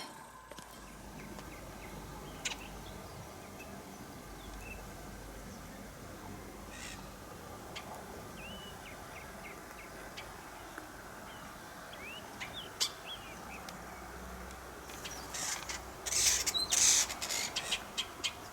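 Outdoor ambience with birds chirping in short, scattered calls. A few isolated clicks, then a run of louder sharp noises near the end.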